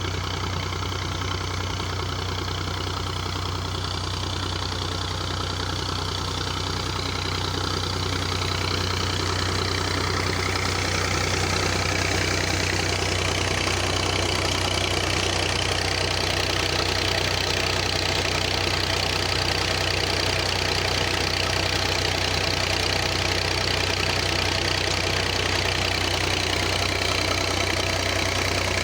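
Millat MF240 tractor's three-cylinder diesel engine running steadily while powering a tubewell pump. It grows a little louder and brighter between about 8 and 12 seconds in, then holds an even note.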